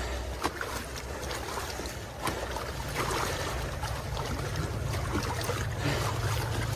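Rubber boots wading through shallow marsh water and mud: irregular sloshing and splashing steps. A low steady drone joins in about three seconds in.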